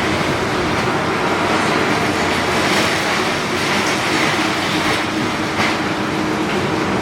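Demolition excavator working, with a steady engine drone under continuous metallic clattering, and a sharp knock a little over halfway through.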